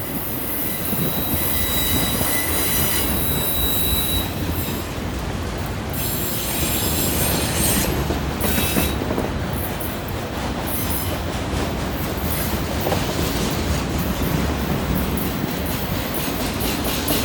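Freight cars of a long CN train rolling past on a curve: steady steel-wheel rumble and clatter, with a thin, high wheel squeal between about one and four seconds in.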